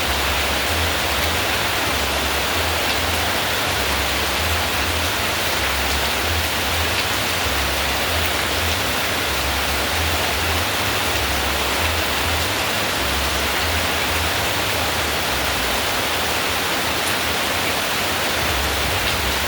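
Steady heavy rain, a dense even hiss, with a low rumble that comes and goes underneath.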